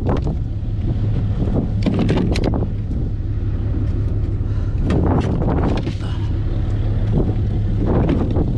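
A vehicle engine running steadily, with gusts of wind buffeting the microphone in repeated surges.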